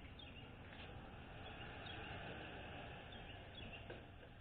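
Faint steady background noise with a low hum and a few light clicks.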